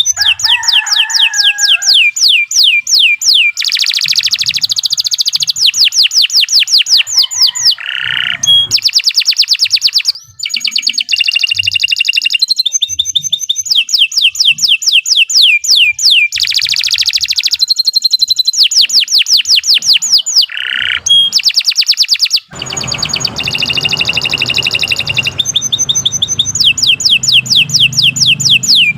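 Domestic canary singing a long, nearly unbroken song of rapid trills: runs of fast repeated sweeping notes that change from phrase to phrase, with only brief pauses.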